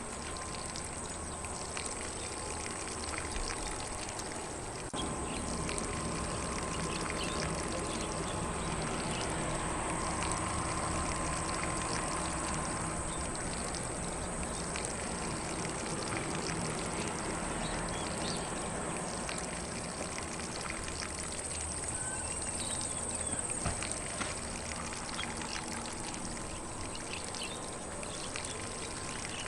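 Lawn sprinkler spraying water onto grass: a steady watery hiss and patter, slightly louder from about five seconds in.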